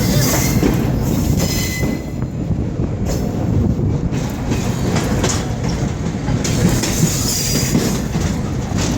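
Small train rolling slowly along the track, heard from a riding car: a steady rumble of steel wheels on rail with occasional clicks over the rail joints and a brief high wheel squeal about two seconds in.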